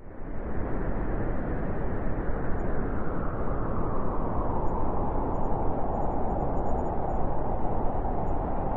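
Blizzard wind blowing steadily with a hollow howl in the middle pitches that grows stronger after a few seconds. It fades in quickly right at the start.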